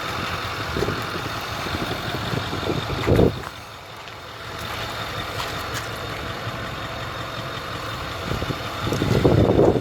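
Ford F-550 Super Duty truck engine idling, with a brief louder surge about three seconds in, a quieter spell just after it, and louder rumbling near the end.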